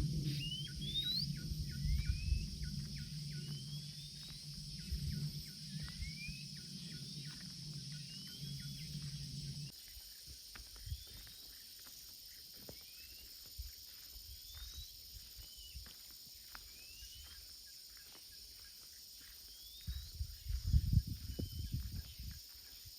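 Outdoor ambience: a bird repeats a short rising call about once a second over a steady high drone of insects. A low steady hum runs underneath and cuts off suddenly about ten seconds in, and low rumbles come in near the end.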